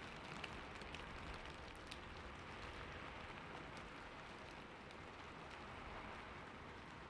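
Steady rainfall, an even hiss of many drops, with a few separate drops ticking out above it in the first two seconds.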